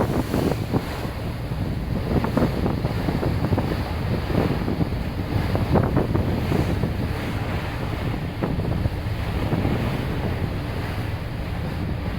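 Wind buffeting the microphone aboard a ferry under way, over a steady rush of water and ship noise, rising and falling in gusts.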